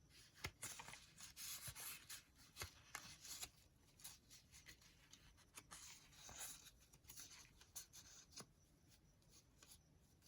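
Faint rustling of paper and card being handled, with scattered light taps and ticks.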